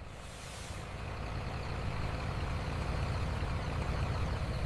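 Heavy vehicle engine running with a steady low rumble that builds over the first couple of seconds, with a brief hiss at the very start.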